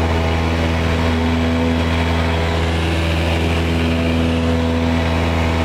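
Cessna 172's piston engine and propeller running at a steady drone, a constant low hum with an even stack of overtones.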